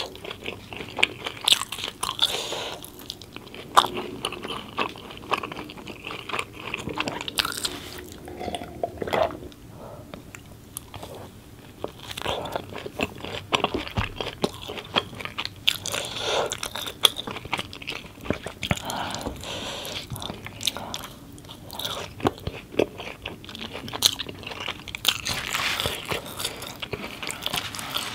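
A person chewing and biting mouthfuls of naan dipped in curry: a steady stream of wet mouth sounds and small sharp clicks, with a louder bite now and then.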